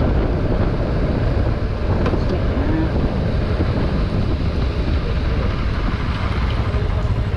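Wind buffeting the microphone: a loud, continuous low rumble with a rushing hiss over it.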